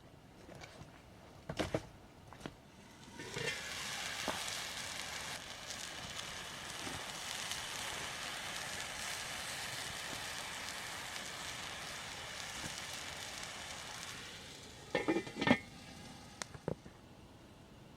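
Food sizzling in a hot pan over a campfire, a steady hiss that starts about three seconds in and stops at about fourteen seconds. A few sharp knocks come before and after it, the loudest just after the sizzling stops.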